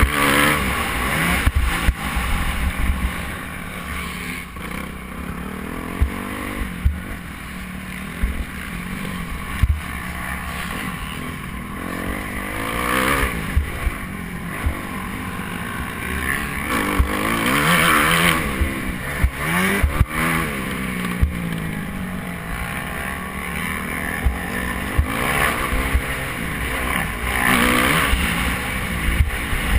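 Motocross bike engine revving hard and easing off over and over, its pitch climbing and dropping with each burst of throttle, with louder surges several times. Underneath runs a low rumble with frequent knocks.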